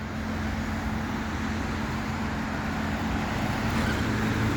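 Road traffic noise: a steady rush with a low hum, slowly growing louder.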